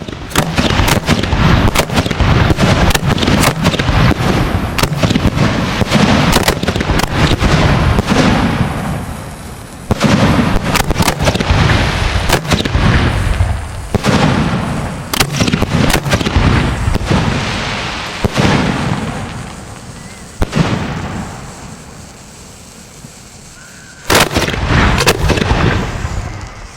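Racks of 3- to 6-inch aerial firework shells firing: volleys of rapid, sharp bangs from the launches and bursts, each volley a few seconds long, with short lulls between them, a single bang about two-thirds through and a last short volley near the end.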